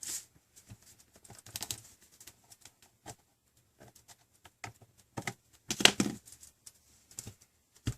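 Small metal pry tool clicking and scraping along the seam of a tablet's plastic back housing as the snap clips are worked loose, with a louder snap about six seconds in.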